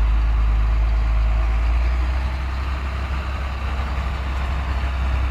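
Heavy vehicle engine running steadily, a deep low hum with engine noise over it.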